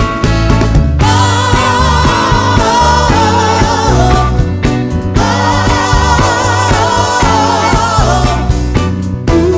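Live soul band with several voices singing long held notes in harmony, without words, over bass and drums. The voices sing two long phrases, with a short break between them about halfway.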